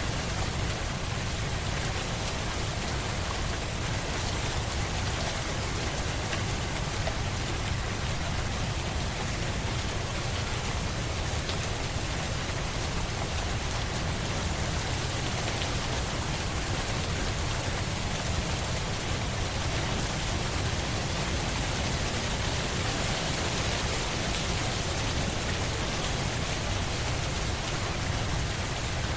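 Steady rain falling on a surface, an even hiss with fine scattered drop ticks over a low rumble.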